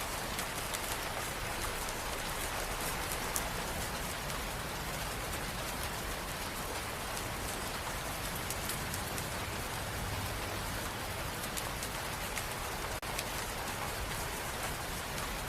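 Steady rain ambience: a dense, even patter of raindrops, with a brief dip in level about thirteen seconds in.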